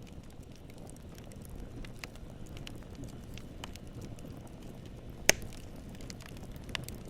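Campfire burning: a steady low rumble of flames with scattered small crackles and pops from the wood, and one sharp loud pop about five seconds in.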